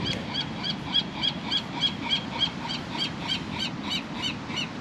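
A bird calling in a quick, even series of short, high chirping notes, about three a second.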